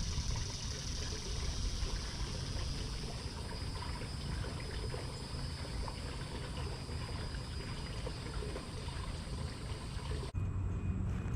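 Water trickling steadily, under a constant high hiss that thins out about a third of the way in. The sound changes abruptly near the end.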